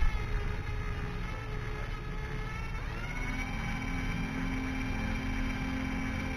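Harbor Freight cordless drill running, with its bit boring into the plastic of a broken dipstick. The motor whine rises in pitch about three seconds in and then holds steady.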